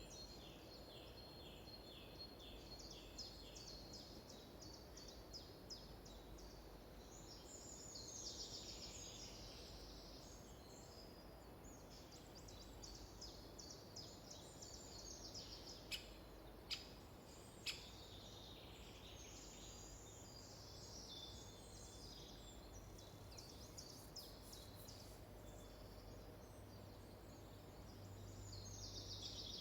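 Songbirds singing faintly in a forest, with rapid repeated notes and trills coming and going over a low steady background hum. Three sharp clicks stand out a little past halfway.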